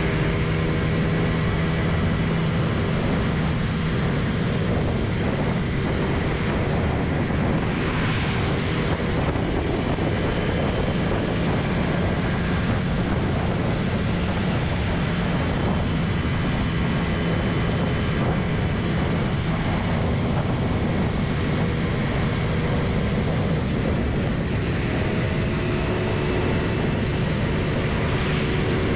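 Motorbike ridden at a steady cruise: the engine hum runs under a loud, even rush of wind and road noise.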